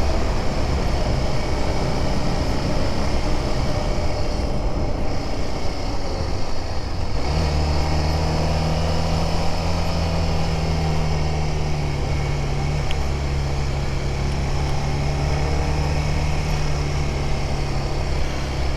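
Honda dual-sport motorcycle engine running under way, with wind rush over the rider's microphone. About seven seconds in, the engine note settles into a steady low drone that holds.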